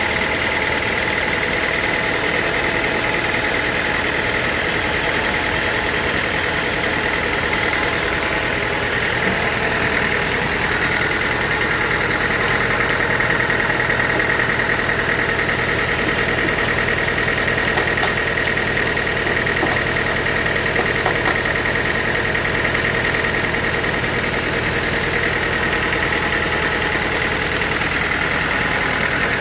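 Sawmill machinery running steadily, a constant high whine over an even mechanical hum.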